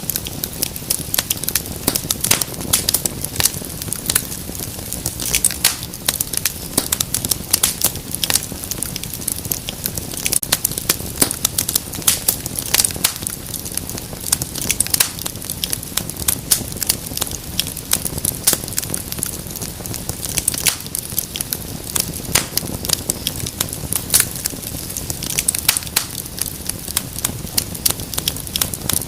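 Wood fire crackling in a fireplace: dense, irregular sharp pops and snaps, several a second, over a steady low rumble of flame.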